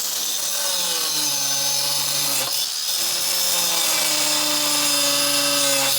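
Power cutting tool running and cutting into a truck's sheet-metal body to clear oversized wheels, with a loud steady hiss; its motor pitch sags under load and eases off briefly about two and a half seconds in.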